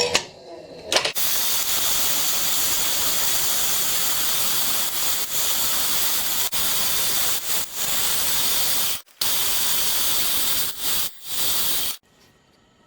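Steady hiss of compressed air at the milling machine, cut off briefly twice and stopping abruptly near the end.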